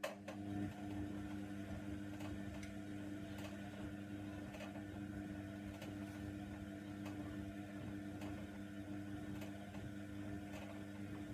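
Hoover Nextra washer-dryer's motor starting up and turning the drum during the wash: a steady hum with a light tick a little more than once a second.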